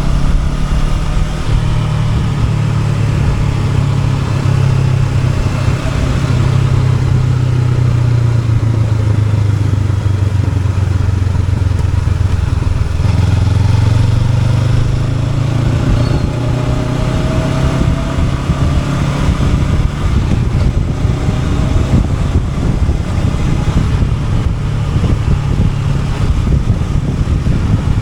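Honda NX500's parallel-twin engine running while the motorcycle is ridden, a steady low note that shifts a little about halfway through, with road and wind noise over it.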